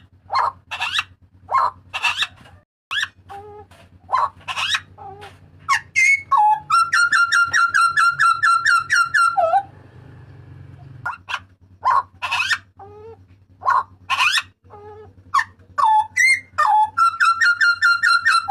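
Papuan butcherbird (burung jagal papua) giving its loud, ringing calls: quick sharply falling whistled notes. Twice there is a long run of fast repeated notes on one pitch, once in the middle and again near the end.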